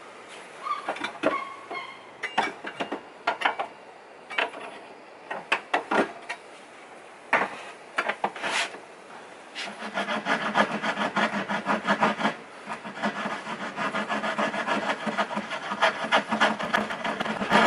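Wood being worked with a tool: separate, uneven scraping strokes, then about halfway through a steady, fast rasping on the wood with a low hum under it.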